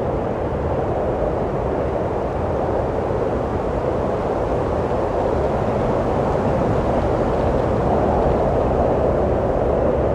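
Steady wind blowing, a continuous rushing noise that swells slightly near the end.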